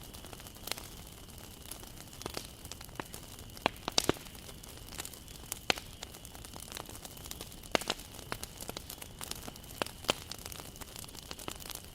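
Wood campfire crackling: a steady soft hiss under irregular sharp pops, the loudest a quick pair about four seconds in.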